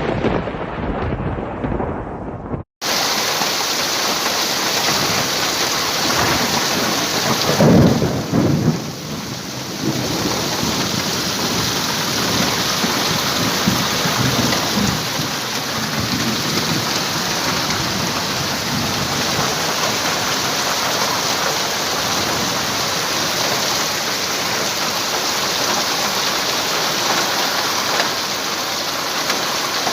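Heavy rain pouring steadily in a thunderstorm, with a loud rumble of thunder about eight seconds in and fainter rumbles after it. An opening rumble cuts off abruptly about three seconds in.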